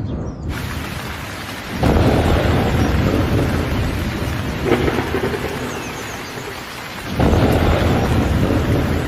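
Heavy rain with rolls of thunder, the rumble swelling about two seconds in and again near the end.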